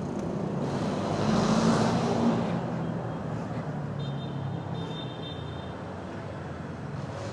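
Aprilia RS 457's parallel-twin engine running just after a restart that followed repeated stalling, swelling louder about a second in before settling back to a steady note.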